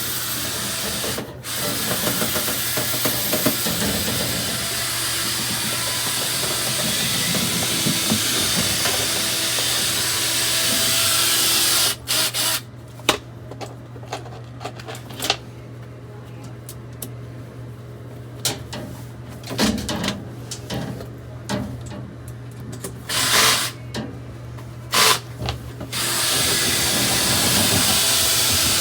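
Dryer vent cleaning equipment running with a loud, steady rush of air over a low motor hum. About halfway through, the rush cuts out and comes back only in short bursts, then runs steadily again near the end.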